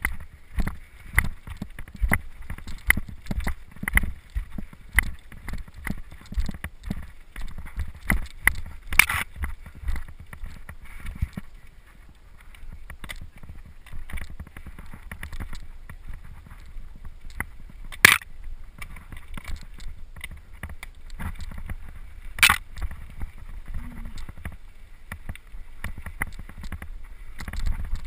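Mountain bike rattling and jolting over rough trail ground, a dense run of irregular knocks and clatters over a low rumble, with three sharper, louder clanks spread through it.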